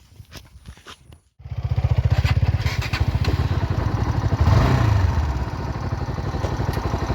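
Motorcycle engine running with a fast, even beat; it comes in suddenly about a second in, revs up briefly a few seconds later, then settles back to a steady run.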